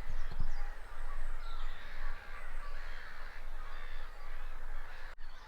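Wild birds calling, a mix of harsh, crow-like calls, over a steady low rumble on the microphone.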